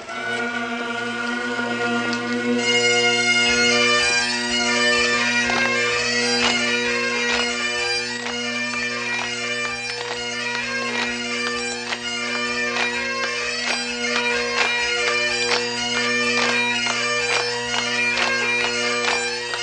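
Bagpipes playing a dance tune. The steady drones sound from the start, and about two seconds in the chanter comes in with a fast melody of many short notes over them.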